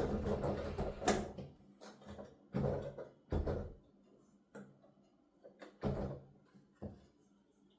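Bare mechanical key noise of a keyboard played with the sound going only to headphones: a dense clatter of keys at first, then a few separate knocks and thuds, spaced out and thinning.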